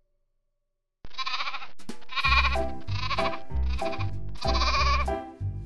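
Silence for about a second, then a sheep bleating several times in wavering calls. About two seconds in, backing music with a steady bass beat starts under the bleats.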